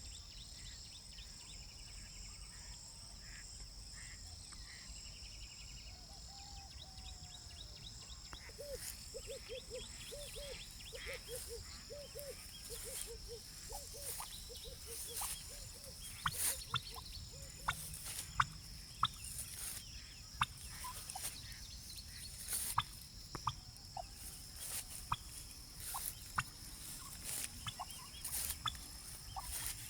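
Free-range turkeys calling: a run of repeated low notes, about three a second, starting about a third of the way in, followed by scattered sharp clicks and short chirps. A steady high insect buzz runs underneath.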